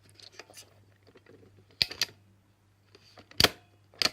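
Hard plastic clicks and knocks from a Vax cordless handheld vacuum being handled, as its battery is released and clicked back into place: a few sharp, separate clicks, the loudest about three and a half seconds in.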